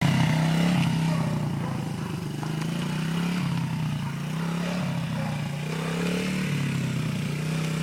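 Dirt bike engine running, its pitch rising and falling a few times as the throttle is eased on and off.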